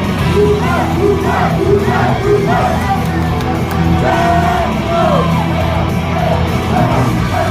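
Live idol pop song played loud over a hall's speakers, with singing and the audience shouting and cheering along.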